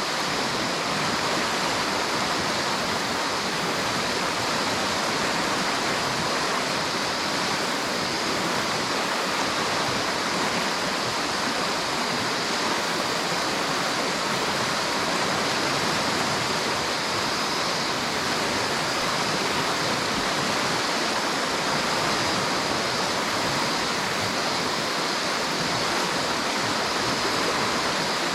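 River water rushing steadily over rocks, a continuous even rush with no changes.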